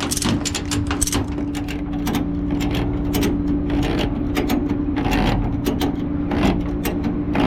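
Tow truck's equipment running with a steady hum, with irregular metallic clicks and clanks throughout as the car is loaded.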